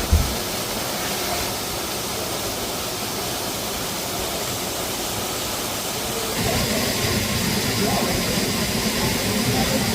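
Steady rushing of a waterfall, with a short thump right at the start; a little over six seconds in, the rush becomes louder and deeper.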